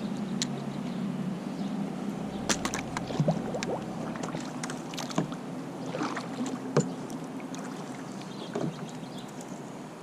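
Scattered light knocks and clicks of gear being handled in a kayak, a cluster of them a few seconds in, over a faint low hum.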